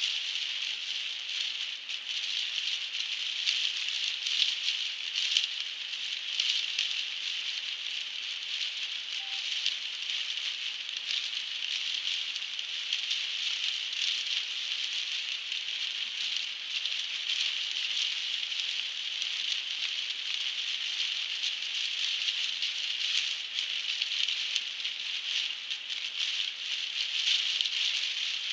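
Heavy rain hitting a car's roof and windshield, heard from inside the moving car as a dense, steady patter of drops.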